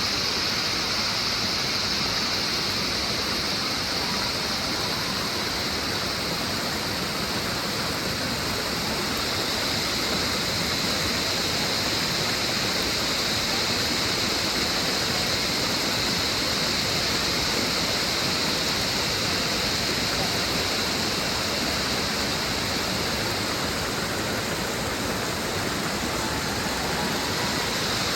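Chorus of cicadas in full song, a steady high-pitched buzz that never breaks and eases slightly in the middle.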